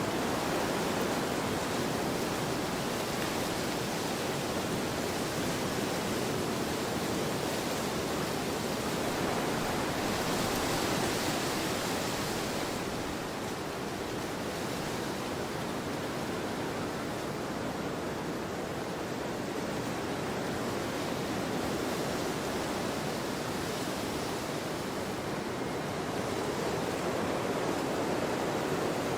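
Wind blowing across a field: a continuous rushing noise that swells briefly about a third of the way through, then eases back.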